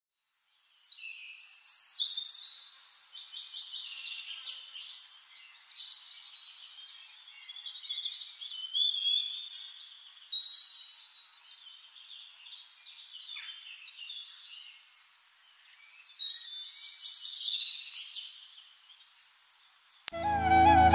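Several birds singing and calling: chirps, trills and whistles in bursts that come and go. A flute tune cuts in near the end.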